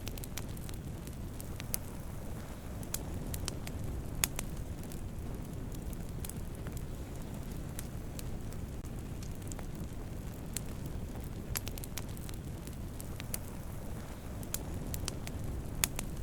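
Wood campfire burning: a steady low rumble of flames with scattered sharp pops and crackles at irregular moments, the loudest about four seconds in and near the end.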